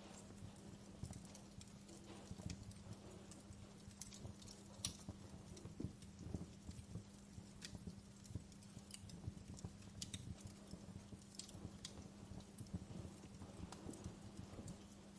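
Wood fire crackling in a fireplace: irregular sharp snaps and pops, several a second, over a low rumble of burning logs.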